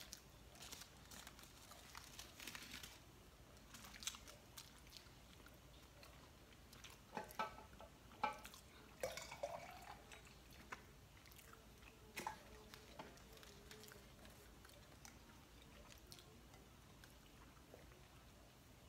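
Faint close-up eating sounds: chewing and biting into a fast-food cheeseburger and chicken nuggets, with scattered short clicks.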